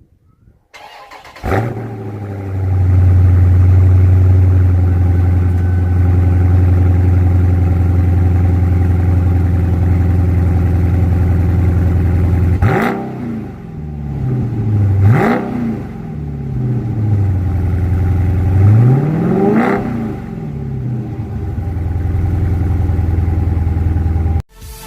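Car engine cold start: a brief crank, then it catches about a second and a half in and settles into a steady fast idle. Further on it is revved three times, each rev rising and falling back to idle.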